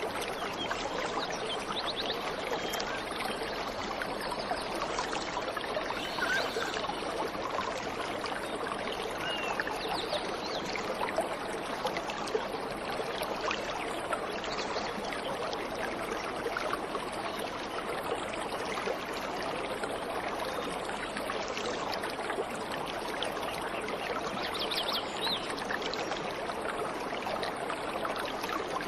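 Waterfall water rushing in a steady, unbroken stream. A few faint bird chirps come through now and then.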